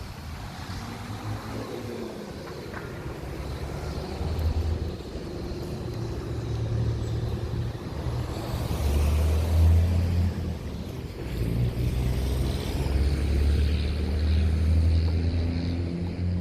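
Motor vehicles passing close by on a street, a low engine rumble that swells about halfway through and again near the end, with wind buffeting the microphone.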